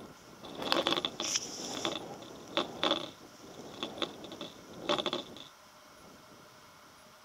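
Irregular clicking and clinking in several bursts, with one short hiss between one and two seconds in, stopping about five and a half seconds in.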